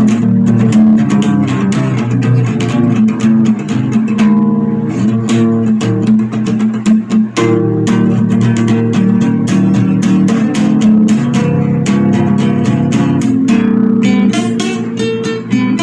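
Guitar music: quickly plucked guitar notes over a sustained bass line, the playing moving to higher notes near the end.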